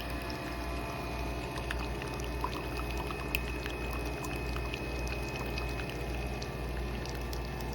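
Nespresso Vertuo Next capsule machine brewing: a steady motor hum with coffee pouring and dripping into the cup, with small scattered ticks.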